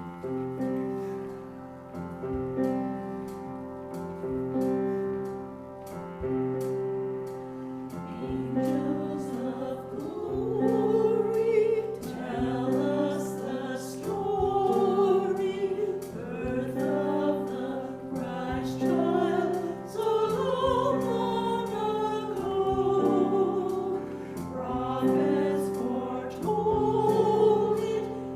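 Church music: held instrumental chords open, and about eight seconds in a group of voices joins, singing with the accompaniment.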